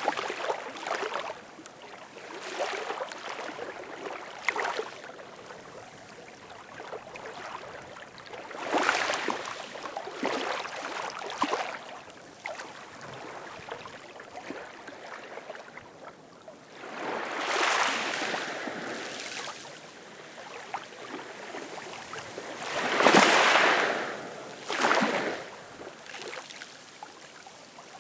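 Ocean waves washing and lapping on the shore in irregular surges of hissing water, the biggest wash coming near the end.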